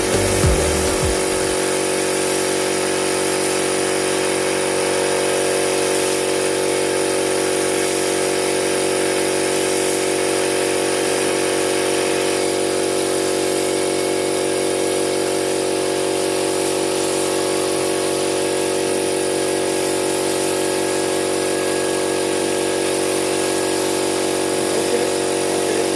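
A motor running with a steady, unchanging drone.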